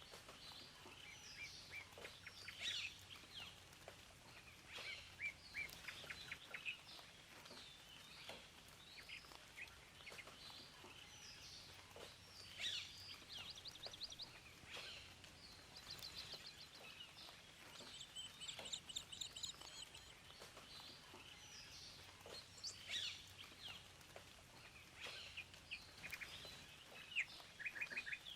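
Several songbirds chirping and trilling, with quick rapid-note runs and short whistled calls overlapping throughout, over a faint steady hiss.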